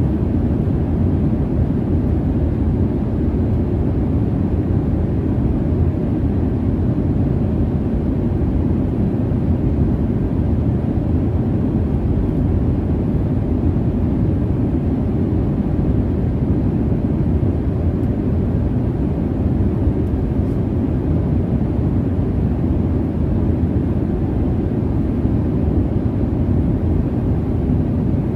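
Steady jet airliner cabin noise: a low, even rush of engine and airflow noise with no changes or breaks.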